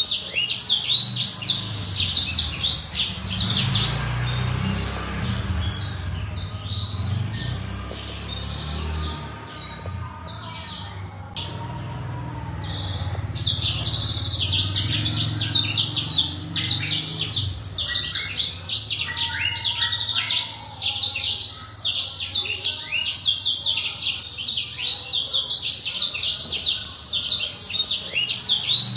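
Blackthroat (black-throated canary) singing a fast, continuous song of high twittering notes. The song thins out to scattered notes from about 3 to 13 seconds in, then resumes at full pace.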